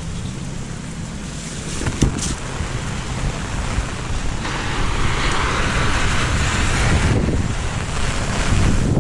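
Storm noise: wind buffeting the microphone over a steady rush of heavy rain and water, with a louder hiss from about halfway to near the end.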